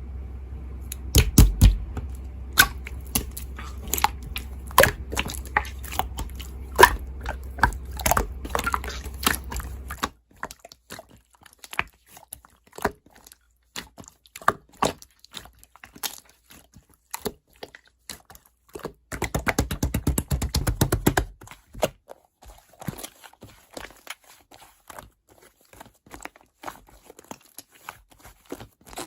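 Irregular sharp clicks and taps. A low hum sits under them for about the first ten seconds. Around twenty seconds in there is a short, dense run of rapid clicks.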